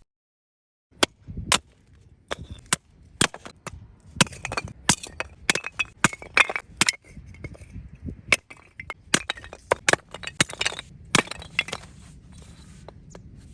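A rapid, irregular series of sharp clinks and knocks, a few of them with a short metallic ring, as of hard objects being handled and set down.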